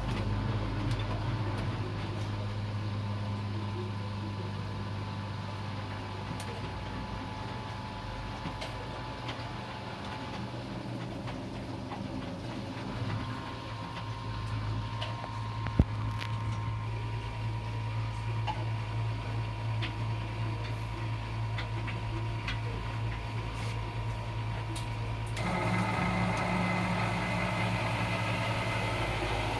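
Miele W 759 washing machine running with a steady motor hum, and a single sharp click about halfway through. Near the end the sound turns fuller and a little louder.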